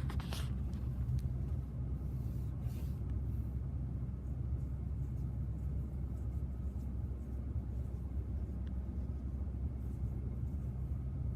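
Steady low rumble of a vehicle idling, with a short click right at the start.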